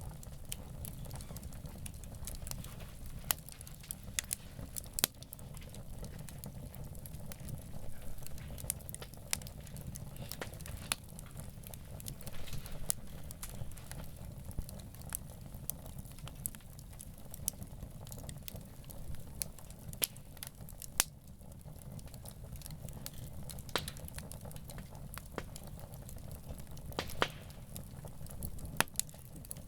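Wood campfire burning, with irregular sharp crackles and pops, a few of them louder, over a steady low rumble.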